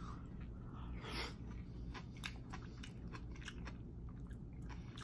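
Close-up chewing of a mouthful of basil hoisin chicken thigh and rice, a stream of small irregular mouth clicks.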